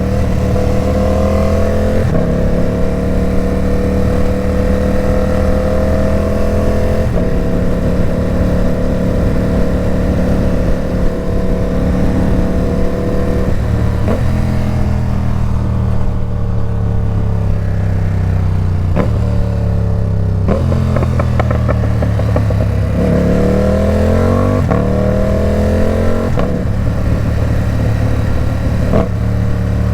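Ducati Supersport 950 S's L-twin engine through a loud Competition Werkes aftermarket exhaust, riding on the road through several gear changes. The engine note steps at each shift, falls as the bike slows around the middle, and rises as it accelerates again later on.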